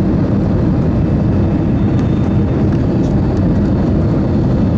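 Steady low rumble of an Airbus A320-214's CFM56 engines and airflow, even and unchanging throughout.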